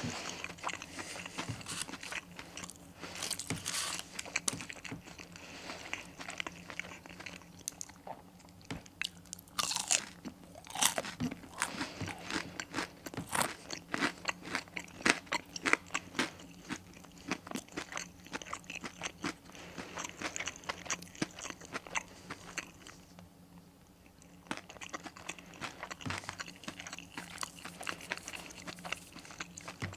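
Close-miked chewing of crunchy breaded fried chicken: irregular crisp crunches as the coating breaks between the teeth, easing off for a moment about three quarters of the way through.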